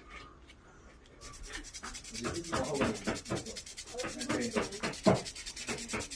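Quick, rhythmic rubbing or scraping strokes by hand, several a second, starting about a second in.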